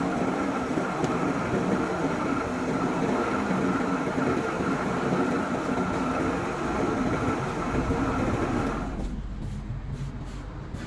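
Steady machine noise with a constant whine. About nine seconds in it changes to a lower hum with a regular pulsing beat.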